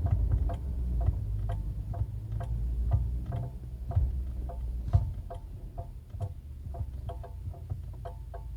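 Caoa Chery Tiggo 7 Sport making a rapid, even metallic clicking, about three to four clicks a second, with the brake pedal held down, over a low cabin rumble. It is like a spoon tapping a pan, a noise the owner considers not normal and has yet to have diagnosed.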